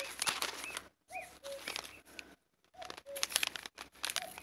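A bird repeats short whistled notes in a simple phrase about once a second, among bursts of close rustling and scraping.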